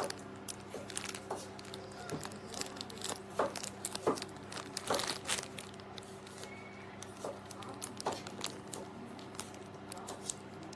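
Irregular rustling and crinkling with scattered clicks, over a steady low hum.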